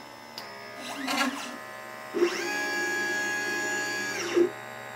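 LitePlacer pick-and-place machine's stepper motors whining as the gantry moves: a short move about a second in, then a longer one that rises in pitch, holds steady and falls away again near the end.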